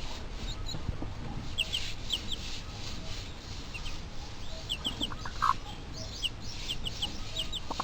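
Birds chirping: short high chirps, often in pairs, repeating over a steady background hiss.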